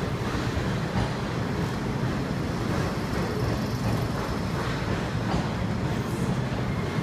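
Blue sleeper coaches of the Hokutosei overnight train rolling past along the platform as the train pulls in: a steady rumble of steel wheels on rail.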